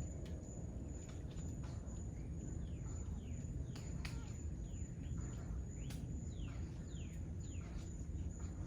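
Birds calling with many short chirps that slide down in pitch. A few sharp, scattered taps come through, which are taken for a woodpecker's 'tuck tuck'. Under both runs a steady high-pitched insect whine over a low outdoor rumble.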